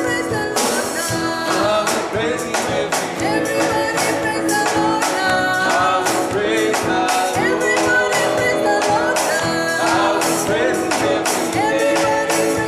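Live worship band playing an upbeat passage with a steady drum beat under a melody line, with some singing.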